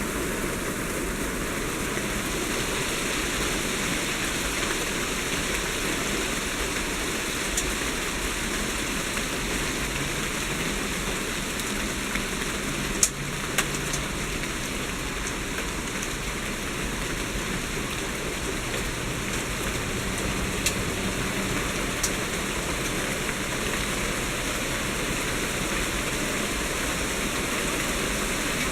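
Heavy pea-size hail pelting down in a dense, steady hiss, with a few sharper single impacts standing out, the loudest about halfway through.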